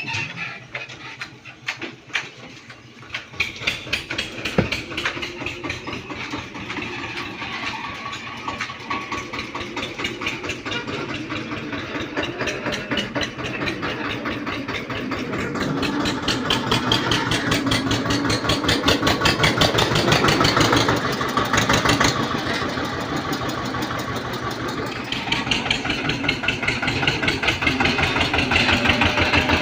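Tractor engine running with rapid, even firing pulses, getting louder from about halfway through.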